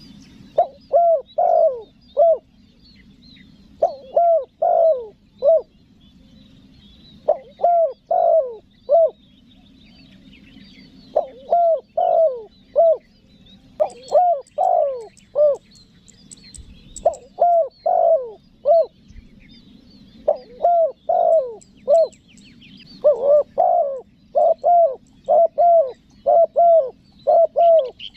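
Spotted dove (tekukur) giving its calling coo: short phrases of a few curved notes, repeated every three to four seconds and coming closer together over the last few seconds. It is a clear recording of the call used to lure wild doves. Small birds chirp faintly in the background.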